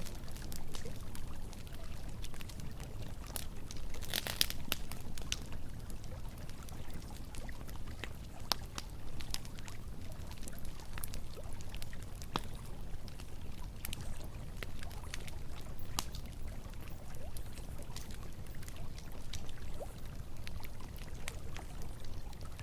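Campfire crackling, with sharp pops scattered throughout and a cluster of louder crackles about four seconds in, over the steady rush of flowing river water.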